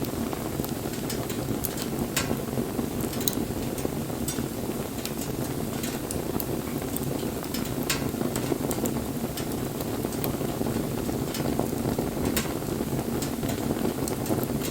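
Wood fire burning: a steady low rush of flame with frequent, irregular sharp crackles and pops from the burning wood.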